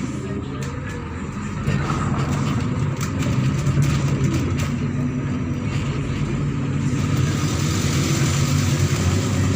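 MAZ-103 city bus engine running as the bus drives, a steady low hum that gets louder about two seconds in, with road noise building toward the end.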